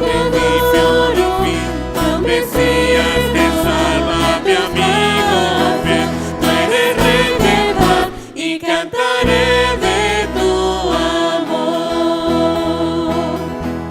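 A worship song in a church service: voices singing together over instrumental accompaniment with a steady bass. The music thins out briefly about eight and a half seconds in, then carries on.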